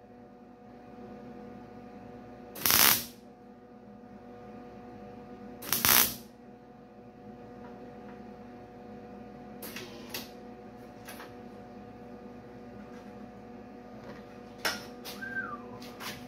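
Two short tack-weld bursts from a trigger-operated welder, each about half a second long and about three seconds apart, over a steady electrical hum. A few light metallic clicks and taps follow near the end.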